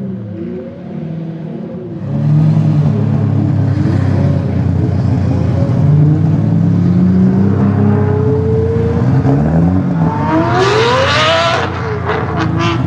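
Lamborghini Murciélago V12 running through straight-pipe exhaust. It gets much louder about two seconds in and climbs in pitch as it accelerates. Near the end comes a steep, high rising rev, followed by a few sharp pops as it drops off.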